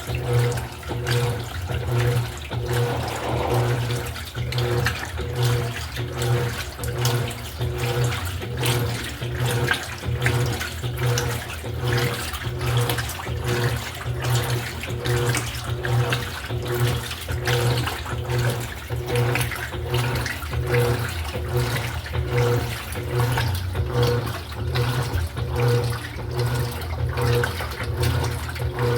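Electrolux LED14 top-loading washing machine agitating a wash: a steady motor hum with water churning and sloshing in a regular back-and-forth rhythm, about once a second.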